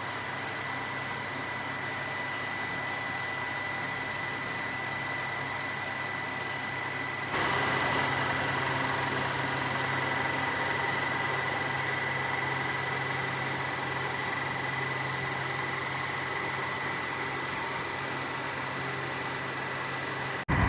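Boxer 12-inch box fan running steadily: an even rush of air over a low motor hum and a thin, high steady tone. About seven seconds in it steps up and gets louder, then holds steady.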